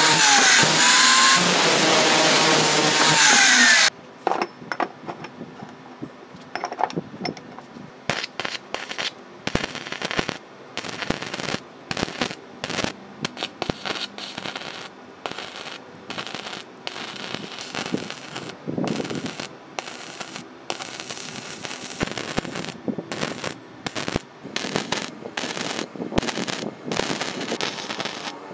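A loud, dense sound with gliding tones for about four seconds cuts off suddenly. It is followed by irregular clattering: sharp knocks and clicks at uneven spacing.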